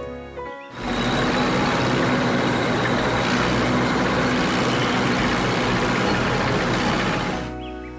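Heavy vehicle engine running steadily as a cartoon sound effect, a rough noisy sound with a steady hum. It starts under a second in and fades out near the end, with music before and after it.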